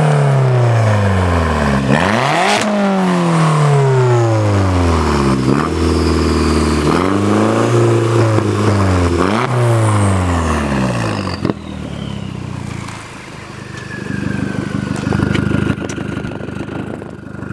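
Turbocharged 1.8-litre four-cylinder of a VW GTI through a catless 3-inch turbo-back exhaust, revved several times. First come quick blips whose pitch falls away, then slower rises and falls, before the engine drops back to a steady idle about twelve seconds in.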